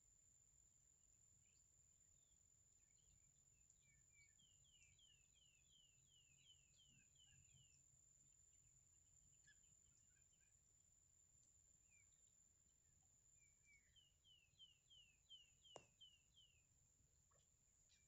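Faint bird calls: two runs of about ten quick down-slurred chirps, a few seconds apart, over a steady high-pitched whine.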